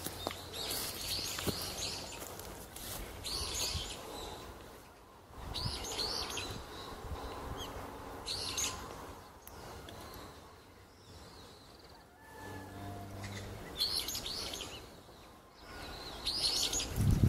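A songbird chirping in short bursts of song every two to three seconds, about six times, over faint outdoor background; a low bump near the end.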